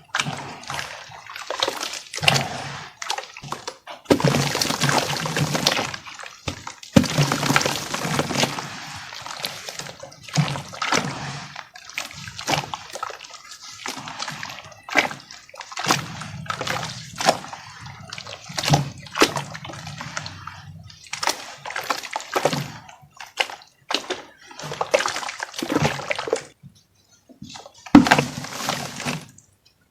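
Dry crumbly lumps being dipped in water and crushed by hand: splashing and sloshing mixed with crackling breaks, in bursts with short pauses between them.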